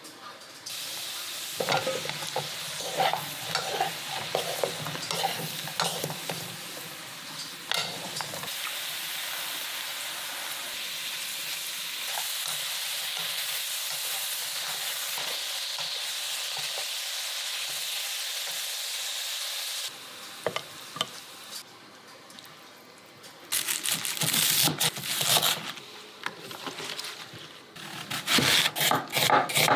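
Eggplant slices sizzling as they are stir-fried in a wok, wooden spatulas tapping and scraping the pan. Near the end, a knife chops through an onion onto a wooden cutting board in sharp strokes.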